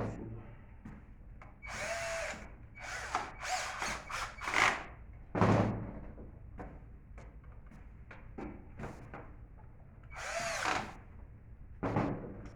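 A handheld power drill-driver runs in several short bursts of about a second each, its motor pitch rising and falling within a burst. Small clicks and handling knocks come between the bursts.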